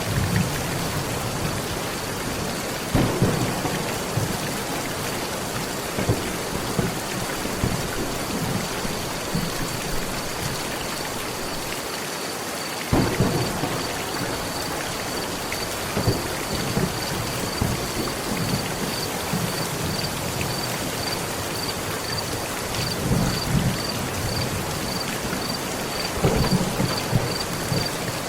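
Heavy rain drumming steadily on a metal roof, with low rolls of thunder rising several times, the strongest about 3 s, 13 s and near the end.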